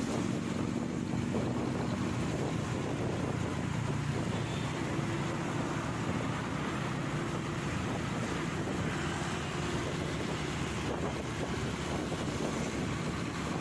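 Wind buffeting the microphone over a motorcycle engine running steadily underneath during riding.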